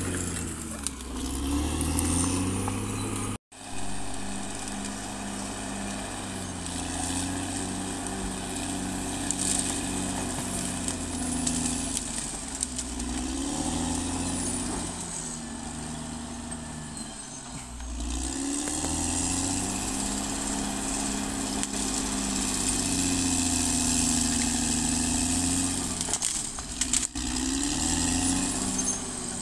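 Diesel engine of a Caterpillar D6R XL crawler bulldozer running under changing load, its pitch rising and falling repeatedly as it revs up and lugs down while working. There is a sudden momentary dropout about three and a half seconds in.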